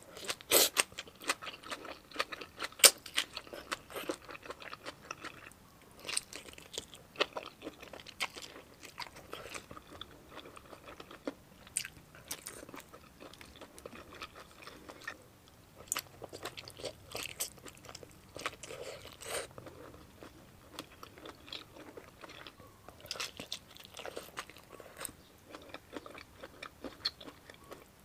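Close-miked eating of spicy boneless chicken feet salad and raw vegetables: irregular sharp crunches and wet chewing, loudest in the first few seconds, with short pauses between mouthfuls.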